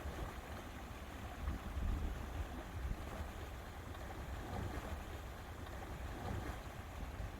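Lakeside ambience: a steady rush of wind and water, with a low rumble that swells a little now and then.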